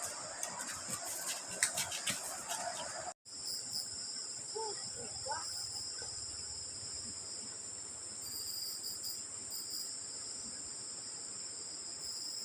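Insects trilling steadily on a continuous high-pitched drone. Over the first three seconds there are irregular rustles and clicks, then a sudden cut, and a few brief chirps come about five seconds in.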